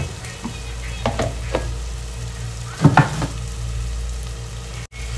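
Onion-tomato masala with ground spices frying in oil in an aluminium pot over a gas flame, with a steady sizzle and a low hum. A few light clicks come early, then a louder brief knock about three seconds in.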